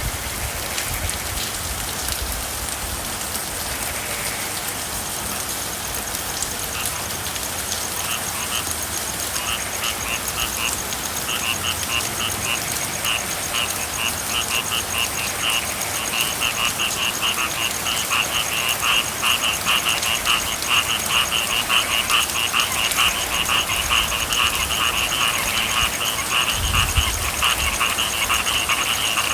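Steady rain with a chorus of frogs calling in rapid pulsed trills, starting about eight seconds in and growing denser and louder.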